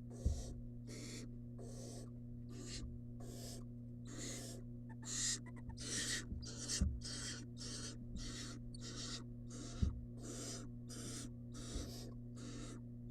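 Barn owl nestling begging calls: rasping hisses repeated about three times a second, over a steady low hum, with a few low knocks.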